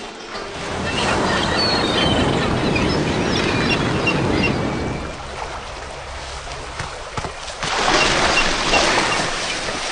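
Gulls squawking over a loud rushing noise that comes in two stretches, about one to five seconds in and again near the end.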